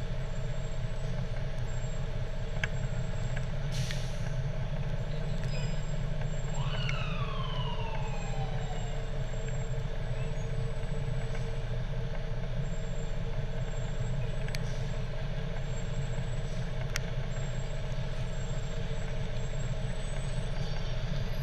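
Fire truck engine running steadily, with a short hiss about four seconds in and a siren winding down, falling in pitch over two or three seconds, about seven seconds in.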